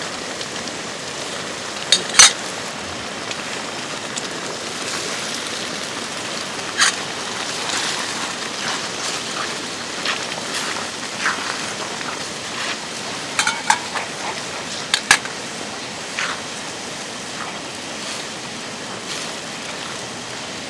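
Light clinks and taps of cutlery and dishes, about a dozen sharp knocks at irregular moments, the loudest about two seconds in and around fifteen seconds in. Under them runs a steady watery hiss.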